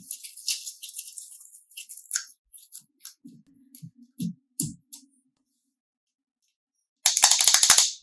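Slime being squished and pulled: sticky crackles and clicks, a few soft squelching thuds, then a loud dense crackling burst about a second long near the end.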